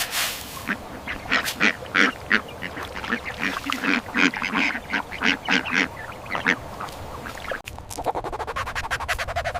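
Ducks quacking, many short quacks in quick succession. From about eight seconds in they give way to a fast, even rattle.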